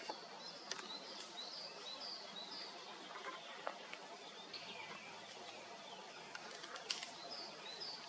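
A bird chirping in two runs of quick, high, repeated notes, over a steady background hiss, with a few faint clicks.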